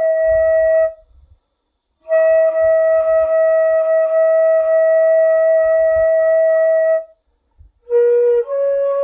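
Sanjo daegeum (Korean bamboo transverse flute) playing a slow melody in long held notes: a note that breaks off about a second in, a short pause, then one steady note held for about five seconds, and after another pause a new phrase that steps up in pitch near the end.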